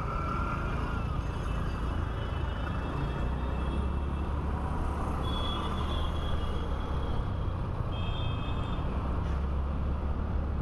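Motorcycle riding in city traffic, heard from the rider's camera: a steady low engine and road rumble, with two short high-pitched tones about five and eight seconds in.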